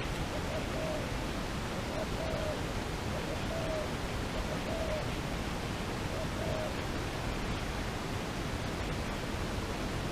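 A dove cooing: short, low, slightly falling hoots, about one a second, that stop about two-thirds of the way in. A steady hiss runs underneath.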